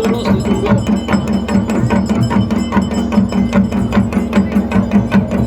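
Drums beaten in a fast, even rhythm, about five strokes a second, over a steady low held tone.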